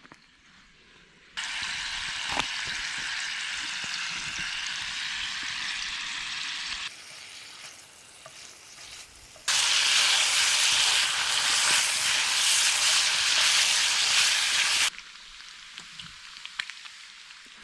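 Food sizzling and frying in a cast iron pan over a campfire, a steady hiss. It starts suddenly about a second and a half in, drops quieter around seven seconds, comes back louder around nine and a half seconds, and cuts off suddenly about fifteen seconds in.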